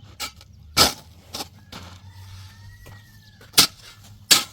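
Sharp, irregular knocks, five in about four seconds, of tools striking on a construction site, over a low steady hum.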